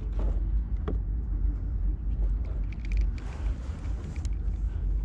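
Steady low rumble of wind on the microphone, with a few light knocks and clicks from fishing gear being handled on the kayak.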